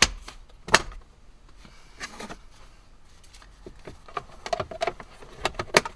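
Plastic clicks and taps as a cabin air filter and its case are pushed and snapped into place in the dashboard: a sharp snap at the start and another just under a second in, then a run of lighter clicks and knocks near the end, finishing with a sharp snap.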